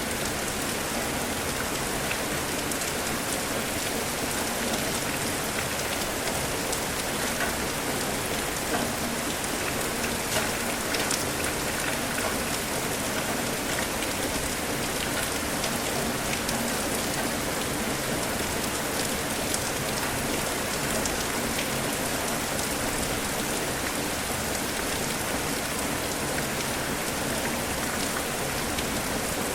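Steady rain falling, an even wash of noise with scattered distinct drop hits.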